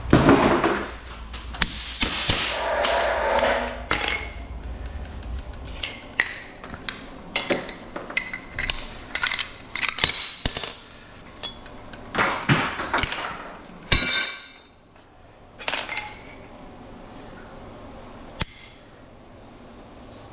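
Thin-walled aluminum tubing from a walker being cut up, with pieces clanking and clinking against metal as they are cut, handled and dropped. Knocks come at uneven intervals, and a low hum stops about six seconds in.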